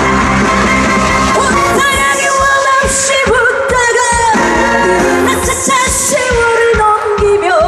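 Korean trot song performed live: a female singer's voice with strong vibrato comes in about two seconds in over loud, steady band accompaniment.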